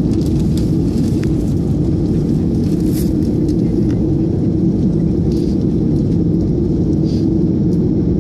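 Steady low rumble of an Airbus A330's engines and air systems heard inside the passenger cabin, with a few faint light ticks.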